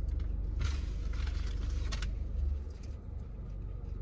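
Biting into and chewing a crispy fried chicken nugget. A crunchy, crackling noise lasts about a second and a half soon after the start, then fades into quieter chewing. Under it is the steady low hum of the car idling, heard inside the cabin.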